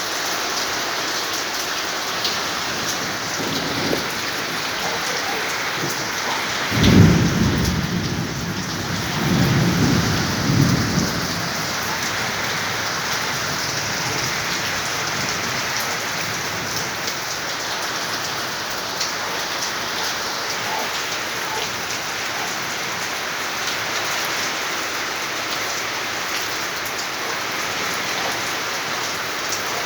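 Heavy rain falling steadily, with a rumble of thunder about seven seconds in that rolls on for several seconds before fading back into the rain.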